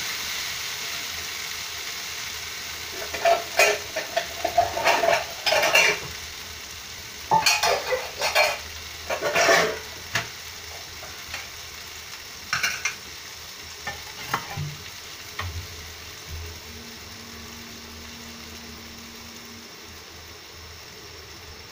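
Green banana pieces sizzling in oil in a non-stick kadai on a gas burner, a steady hiss in the last stage of frying. A cluster of louder sharp crackles and knocks comes in the first half, with a few more after the middle.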